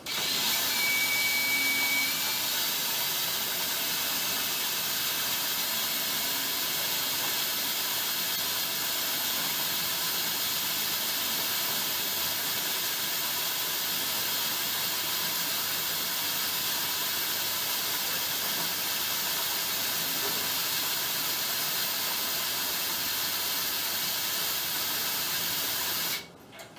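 A steady, even hiss that starts suddenly and cuts off suddenly near the end.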